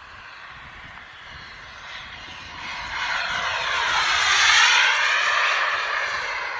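Turbine-powered RC model jet making a fly-by: its jet rush swells, peaks about four and a half seconds in, and fades as it passes.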